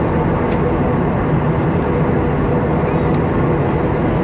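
Steady cabin drone of an Airbus A320-232 in flight, the engines and rushing airflow heard from inside the cabin, with a faint low hum running through it.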